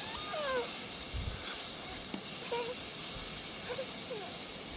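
A cricket chirping steadily, about three short high chirps a second, with a few faint short calls and a brief low rumble about a second in.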